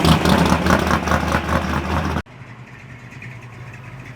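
A car engine running loudly and steadily, cut off abruptly about two seconds in, followed by a much quieter low hum.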